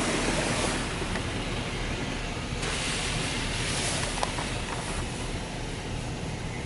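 Steady hissing spray from a touchless car wash's water jets, heard from inside the vehicle's cabin. It gets stronger about two and a half seconds in and eases off a little after five seconds.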